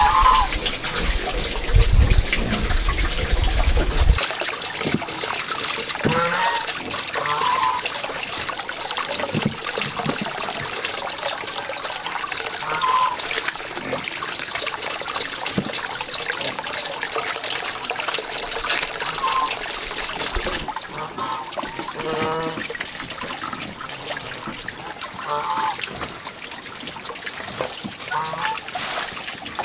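Water trickling steadily, with short bird calls every few seconds. A low rumble stops about four seconds in.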